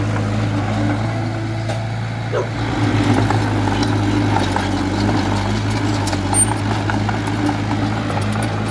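Small D20A bulldozer's diesel engine running steadily with a low hum, a little louder and rougher from about two and a half seconds in, with a few light clanks.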